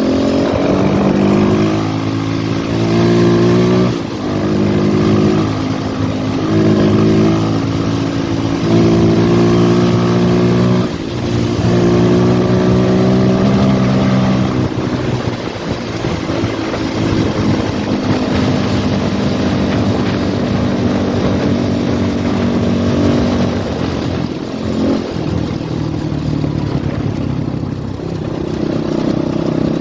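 RVM CZ 250T's four-stroke single-cylinder engine pulling under throttle, rising in pitch, dropping and rising again several times, then running at a steadier, lower pitch in the second half.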